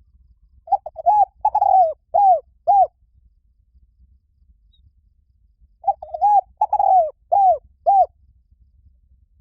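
Spotted dove cooing: two phrases of about five coos each, a few seconds apart, the later notes in each phrase dropping in pitch at their ends.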